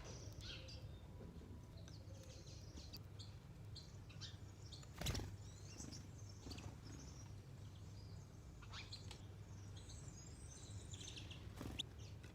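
Small birds chirping in short, scattered calls over a faint low background hum, with one sharp knock about five seconds in.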